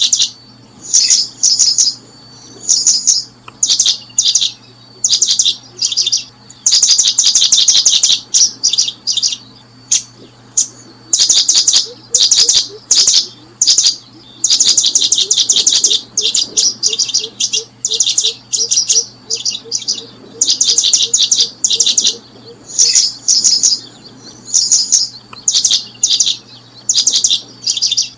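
Birds chirping: high, rapid runs of chirps, each a second or less, repeating with short gaps throughout, over a faint steady hum.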